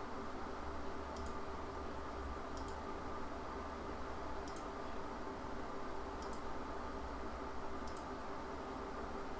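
Computer mouse clicking, five single clicks spaced about one and a half to two seconds apart, as spline-curve points are placed one by one, over a steady low hum.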